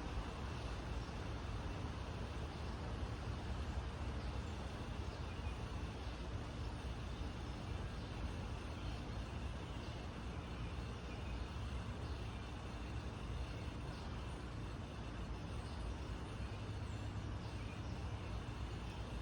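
Steady low outdoor rumble of distant road traffic, with faint short high chirps of small birds scattered through it.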